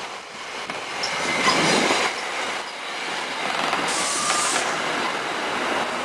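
NJ Transit train rolling past, with the steady running noise of wheels on the rails. A short high hiss comes about four seconds in.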